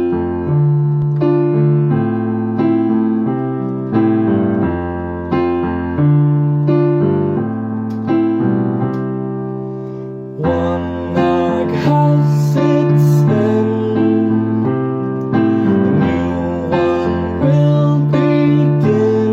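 Piano playing the slow chordal intro of a pop ballad, with chords struck in a steady pulse and left to ring. About halfway through, a higher wavering melody line joins over the chords.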